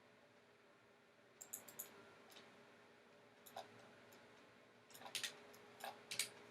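Computer mouse clicking: scattered short, sharp clicks, a quick group of three about a second and a half in, then a busier run of clicks near the end, over faint room hiss.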